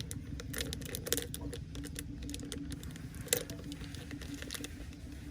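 Quick small crinkling clicks and taps as a baby monkey handles and eats a chocolate snack, densest in the first second or so, with one sharper tap a little after three seconds, over a steady low hum.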